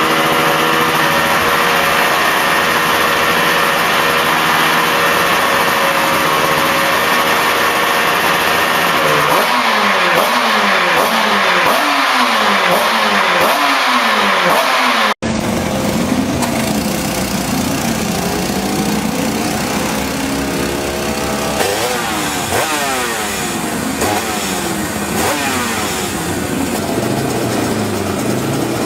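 Two-stroke motorcycle engines running and being revved. One holds a steady speed, then its throttle is blipped up and down repeatedly about a third of the way in. After a sudden cut halfway through, another engine is revved in repeated rises and falls.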